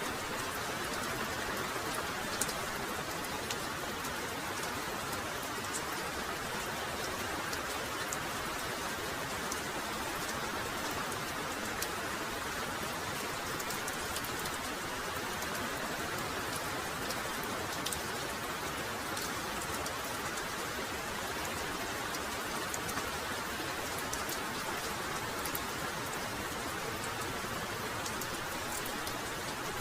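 Heavy rain falling steadily, an even hiss with scattered sharp ticks of single drops.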